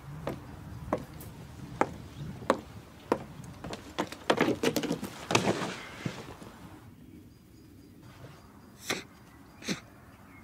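A series of sharp wooden knocks, about one every two-thirds of a second, crowding into a brief cluster of clatter about four to five seconds in, then two more knocks near the end.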